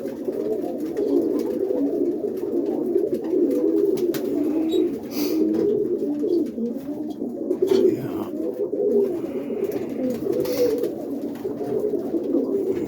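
A coop full of roller pigeons cooing continuously, many birds overlapping, with a few sharp knocks among them.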